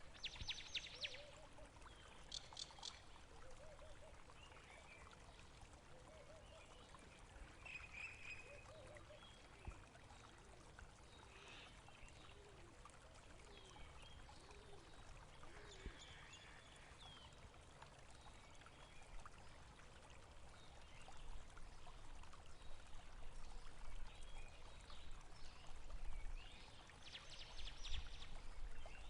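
Faint running water, a stream trickling steadily, with birds calling now and then: brief trills near the start and again near the end, and a few scattered short calls in between.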